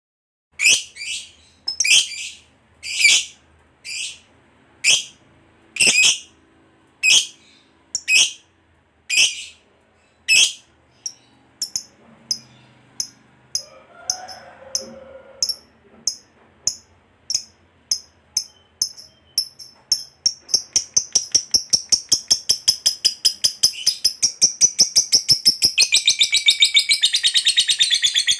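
Lovebird calling: sharp high chirps about once a second, quickening after ten seconds or so and running together in the second half into a long continuous chattering trill, the 'ngekek panjang' that keepers prize.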